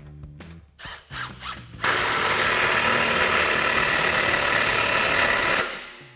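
A few light clicks of a socket going onto an exhaust clamp bolt, then a cordless power tool runs steadily for about four seconds, driving a 16mm socket to tighten the clamp, and stops.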